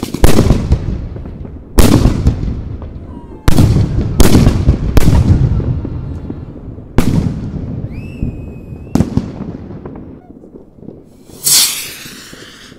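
Aerial firework shells bursting overhead: about seven sharp bangs, several in quick succession, each followed by a long rolling rumble. A short rising whistle comes near the middle, and a brief loud hiss near the end.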